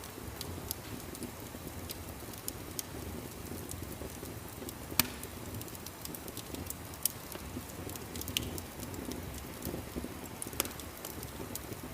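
Wood fire crackling in a fireplace: a steady low rumble of burning with scattered sharp snaps and pops, one louder pop about five seconds in.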